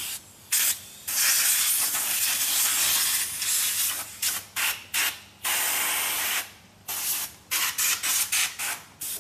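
Compressed-air blow gun hissing in repeated bursts, blowing clean the disassembled scooter transmission gears: a long blast of about two seconds near the start, another of about a second in the middle, and a string of short blasts between and after.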